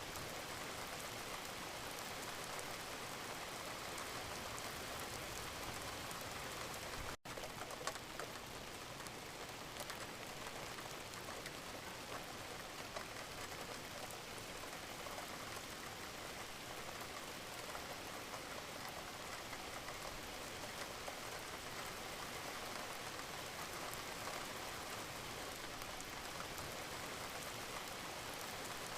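Steady rain falling, an even hiss of many drops with no thunder. There is one split-second gap in the sound about seven seconds in.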